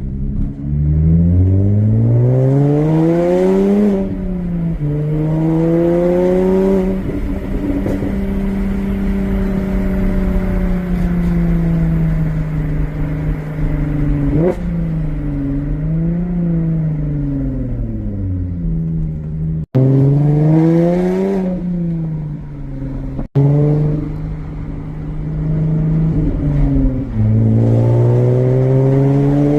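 Jaguar F-Type's 3.0 supercharged V6 through a straight stainless exhaust with the valves removed, driven hard: the note climbs in pitch under acceleration, drops at each upshift and holds steady while cruising. There is a short rev blip about halfway, and another pull builds near the end. The tone is shrill, almost like a motorcycle.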